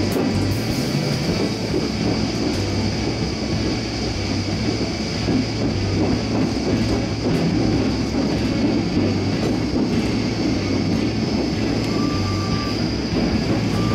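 Electric local train running along the track, heard from just behind the driver's cab: a steady rumble of wheels on rail with overhead-line running noise as it rolls toward a station over points.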